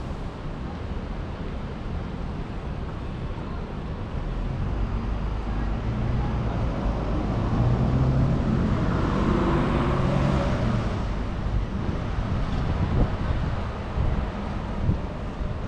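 A motor vehicle passing, growing louder to its closest point around the middle and then fading, over steady city traffic noise.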